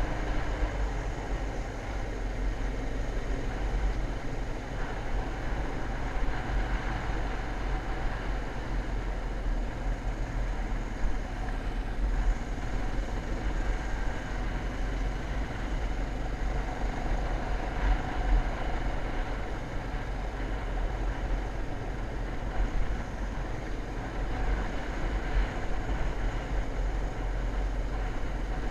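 Dirt bike engine running steadily under way, its pitch drifting a little, with heavy wind rumble on the microphone.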